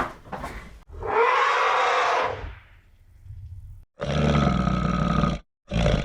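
Farm animal calls in short spliced recordings: a drawn-out pitched call about a second in, then a second long call starting about four seconds in that cuts off abruptly, and a brief one near the end.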